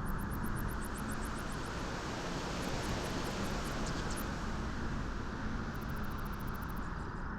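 Steady wind blowing on a beach: a continuous rushing noise, heaviest in the low range, with no gusts or breaks.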